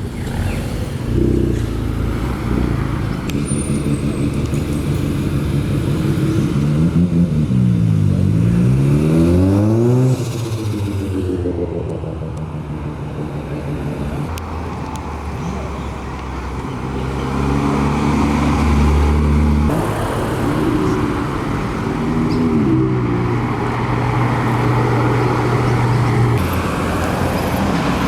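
Several cars driving slowly past one after another, their engines running at low revs. About eight seconds in, one engine's pitch drops and then climbs again as it is revved.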